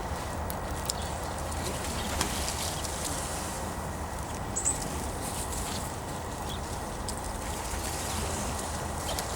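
Birds moving about close by: light high clicks and rustles over a steady low background hum, with one short high chirp about halfway through.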